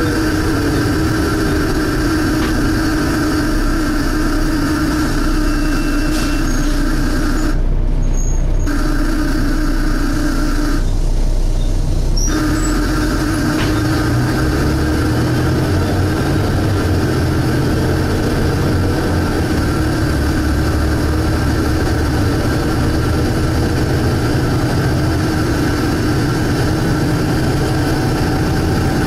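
Volvo B7TL double-decker bus engine running, heard from inside the saloon as a steady drone with a held mid-pitched hum. The higher part of the sound cuts out briefly twice near the middle, and the engine note changes about halfway through as the bus works through its gears.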